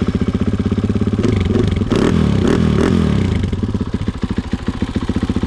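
KTM 500 EXC's single-cylinder four-stroke engine running just after restarting, revved up and down a few times about one to three seconds in, then running steadily. The bike is running again after sucking water in through its air filter and stalling.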